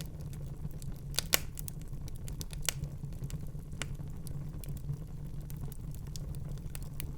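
Wood fire burning in a fireplace: a steady low rumble of flames with irregular sharp crackles and pops, the loudest pops about a second and a half in and near three seconds.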